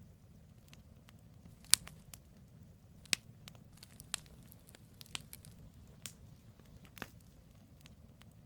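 Campfire of burning wood logs crackling, with irregular sharp pops and snaps over a low steady rumble of the flames; the loudest pops come about two and three seconds in.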